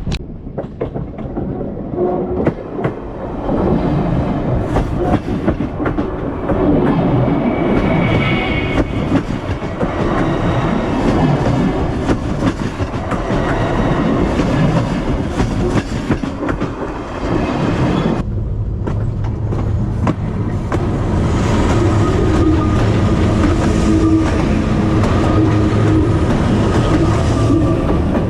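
A train running on rails, its wheels clicking rhythmically over the rail joints. About two-thirds of the way through the sound changes abruptly to a steadier run with a low drone underneath.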